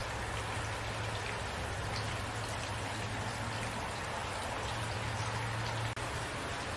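Steady rain falling, an even hiss with faint individual drops ticking through it, over a low steady hum. The sound cuts out for an instant about six seconds in.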